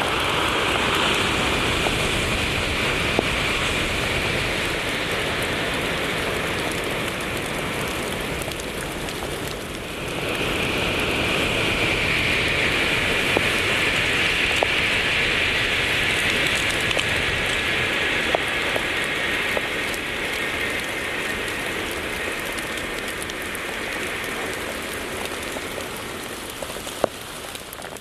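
Heavy rain pouring onto hard surfaces: a steady hiss with scattered drop clicks, dipping briefly about ten seconds in.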